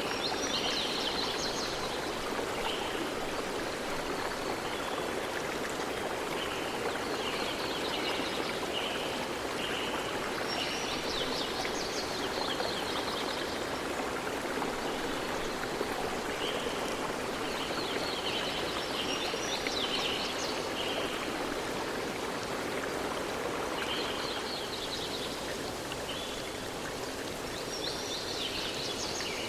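Forest stream flowing steadily, with songbirds calling in short bursts of high chirps and trills every few seconds.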